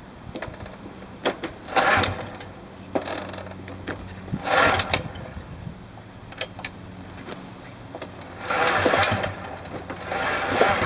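Piaggio Ciao moped's small single-cylinder two-stroke engine being started and running: a steady low running note with a fast mechanical patter, broken by three short loud noisy bursts about two to four seconds apart.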